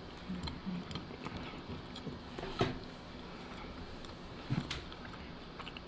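Quiet chewing with small wet mouth clicks as a person eats, with a sharper click about halfway through.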